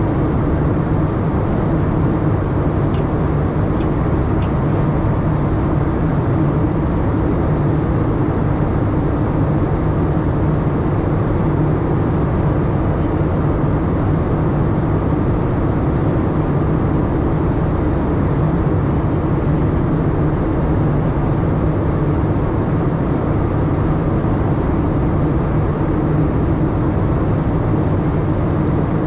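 Steady cabin noise inside a Boeing 787-8 airliner: an even rushing hum of engines and airflow, with a low drone that holds without change.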